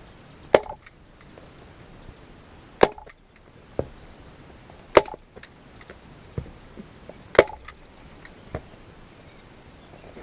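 Staple gun firing four times, about two seconds apart, driving staples through a leather seat cover into a plastic seat base, with lighter clicks between shots.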